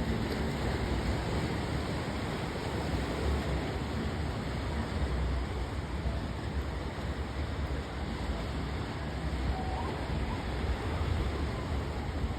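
Steady rumbling wind noise on the microphone over the wash of river water on the shore.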